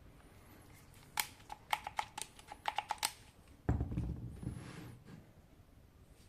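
A quick, uneven run of about a dozen sharp plastic clicks, then one louder dull thump, as the cordless drill and its packaging are handled and set down.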